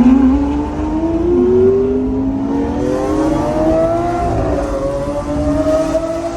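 Lamborghini Aventador SV's V12 engine with a Capristo exhaust accelerating, its pitch climbing steadily and dropping at upshifts about a second and a half in and again about four seconds in.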